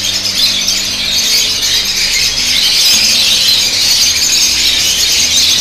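A large flock of caged lovebirds screeching and chattering together in a dense, continuous, high-pitched clamour.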